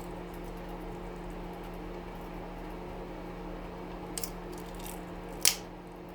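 Steady hum of a stove fan, with two short sharp sounds a little after four seconds in and a louder one near the end as the silicone holding a glass panel is worked loose.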